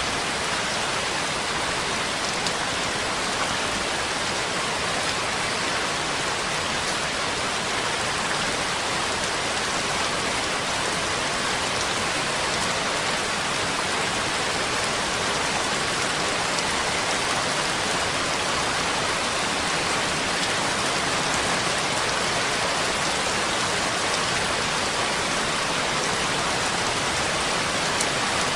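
Steady rainfall: a dense, even hiss of raindrops, unchanging in strength, with a few faint individual drop ticks.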